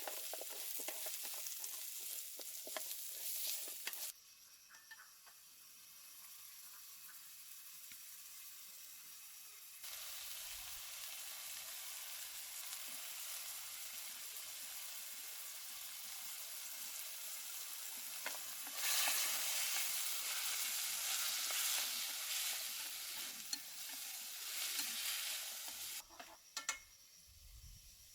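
Food sizzling as it fries in a pan, with short clicks of stirring in the first few seconds and again near the end. The sizzle drops and rises abruptly several times.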